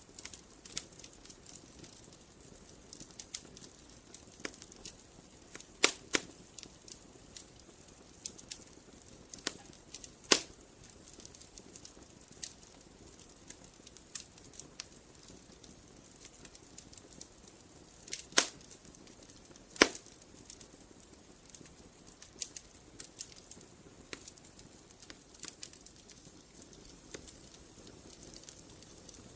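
Wood fire crackling: irregular small snaps and ticks over a soft hiss, with a few sharp, louder pops, two of them close together late on.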